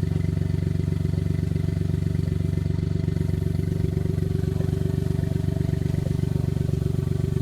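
Off-road 4x4's engine running steadily at idle, an even low pulsing hum that holds one pitch.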